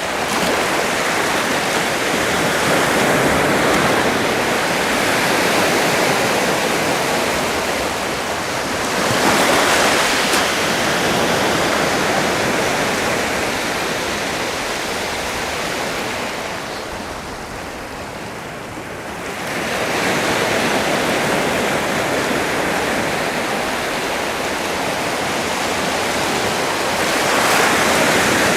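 Sea waves washing onto a shore, a steady rush that swells and ebbs, with a fuller surge about a third of the way in and another near the end and a softer lull in between.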